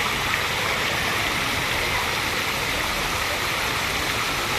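Steady rush of flowing water, an even noise that neither rises nor falls.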